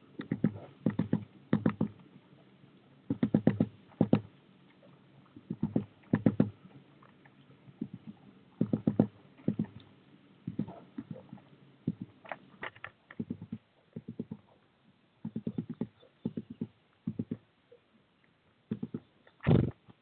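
A small bird at a feeder, right beside the microphone, tapping and scratching: quick runs of small taps in clusters every second or so, with one louder knock near the end.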